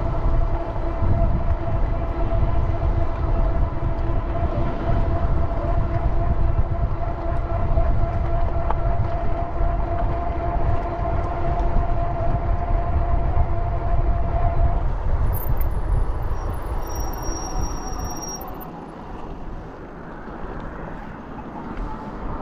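Wind buffeting the microphone of a moving bicycle, a steady low rumble, with a steady hum that stops about two thirds of the way through.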